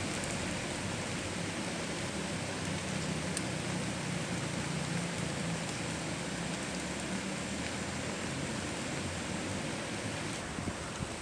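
Heavy rain falling steadily, an even hiss, with a faint low hum in the first half that fades out after about five seconds.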